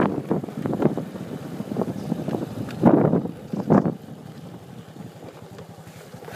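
Wind buffeting the microphone in gusts over a motorbike engine running steadily while riding. After about four seconds the wind drops away, leaving the engine's low, even running.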